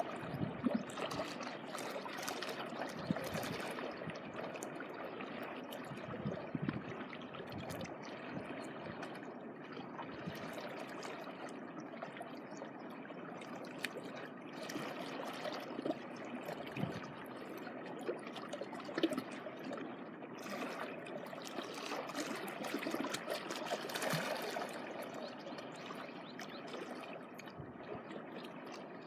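Small waves of seawater lapping and trickling at the shoreline, a steady wash with small irregular splashes.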